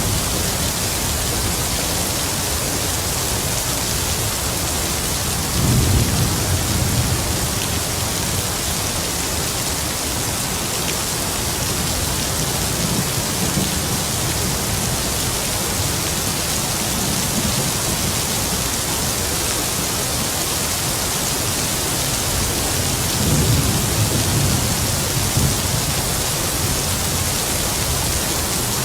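Heavy rain falling in a steady hiss, with distant thunder rumbling low twice, about six seconds in and again near the end.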